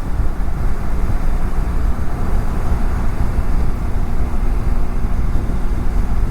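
Steady wind rush over a BMW F700GS motorcycle engine running at cruising speed, picked up by a lavalier mic on the rider's helmet.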